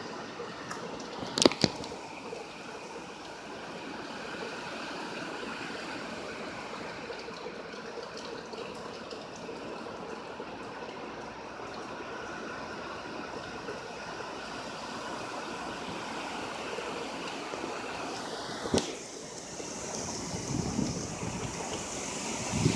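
Hurricane rain and running water, a steady rushing hiss, with two sharp knocks, one about a second and a half in and one near the end. Wind gusts buffet the microphone in the last few seconds.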